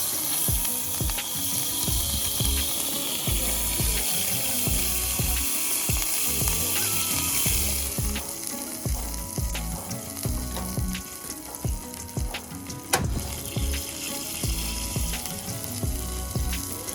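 Food sizzling as it cooks, with many sharp clicks and taps of a utensil throughout; the sizzle fades about halfway through.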